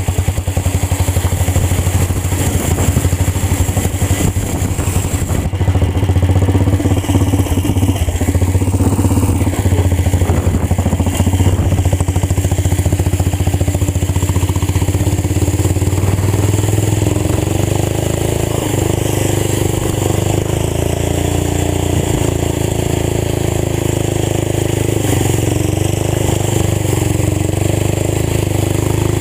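Old tractor engine running loud through a fully open exhaust pipe, a steady rapid popping. About halfway through, the engine speed starts to waver up and down.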